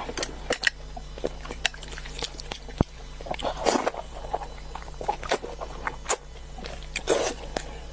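Close-up chewing and lip-smacking while eating chicken: an irregular run of wet clicks and short crunchy bursts, over a low steady hum.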